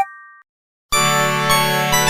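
Synthesized ringtones of an LG MG191 mobile phone: one tune stops with a short held chord that fades out, then after half a second of silence the next ringtone starts about a second in, a busy electronic tune of many bell-like notes over a pulsing bass.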